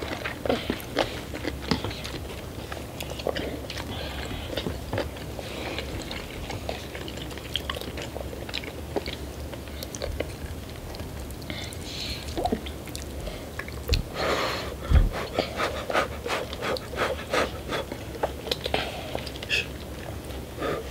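Close-miked eating: several people chewing and biting into saucy chicken wings and noodles, with small clicks of forks in paper noodle cups. A louder thump comes about two-thirds of the way through.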